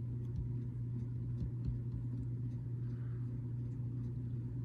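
A steady low hum with faint small clicks of plastic building bricks being handled.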